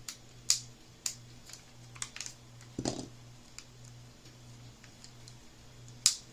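Sharp, separate plastic clicks and taps from a Game Boy Color's shell being handled and snapped back together, about half a dozen spread irregularly, over a faint steady low hum.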